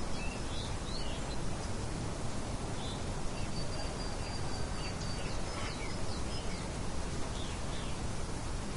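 Steady soft wind hiss with scattered short bird chirps throughout, and a thin high steady note through the middle.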